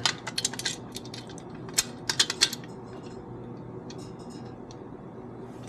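Quick runs of light metallic clicks and taps as small steel hardware (a nut and the chain vise's metal parts) is handled and fitted: one cluster at the start, another about two seconds in, then fainter ticks near four seconds.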